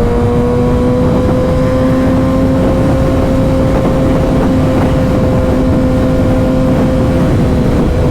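Motorcycle engine running at a steady cruise, its pitch rising slightly in the first few seconds and then holding, under a heavy rush of wind noise.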